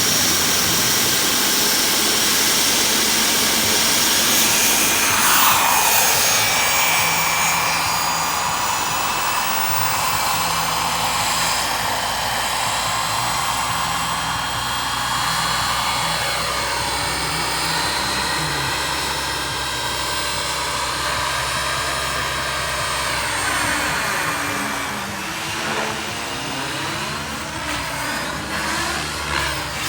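Wren 45 kerosene turbine engine of a radio-controlled helicopter running in flight, a steady high jet whine. Its pitch glides down and back in places, and it wavers near the end as the model moves about.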